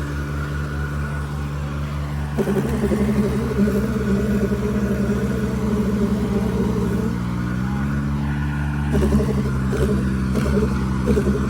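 Diesel tractor engines running hard under heavy load as two chained tractors pull against each other in a tug-of-war. The engine note turns rougher and louder about two and a half seconds in, and its pitch climbs again about two thirds of the way through as the throttle is opened further.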